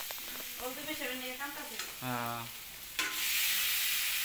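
Boiled eggs frying in spiced oil in a wok on a gas burner, sizzling as they are stirred with a spoon; the sizzle grows louder about three seconds in.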